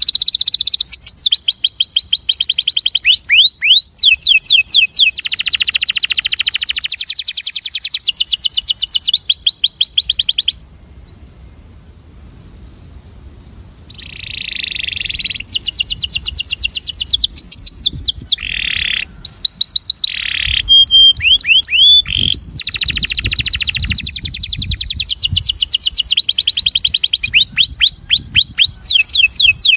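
Male canary singing: long, fast trills of rapidly repeated high notes, one phrase after another, breaking off for a few seconds about a third of the way in and then starting again.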